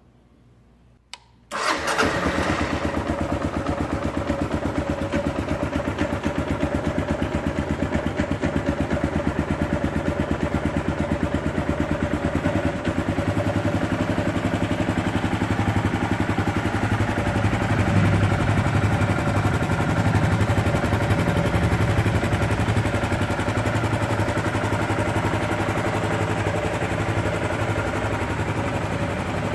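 Kawasaki KLR 650's 651cc single-cylinder engine starting: a click, then it fires and catches about a second and a half in and settles into a steady idle. It runs a little louder for a while past the middle.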